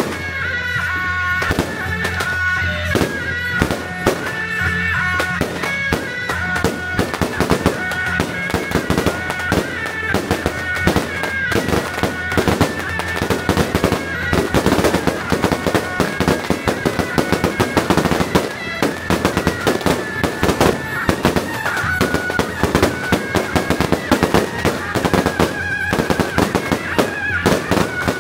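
Strings of firecrackers going off in a rapid, continuous crackle, dense cracks with no break, over music with held notes.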